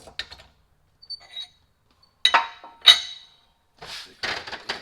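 Steel parts clanking against each other: a few light clinks, then two loud ringing metal knocks about two and three seconds in, and a quick run of lighter clatter near the end.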